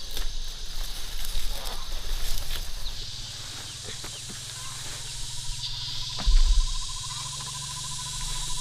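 Insects droning steadily in the field, with a pulsing trill that starts about five seconds in. Scattered rustles and clicks, and one low thump about six seconds in.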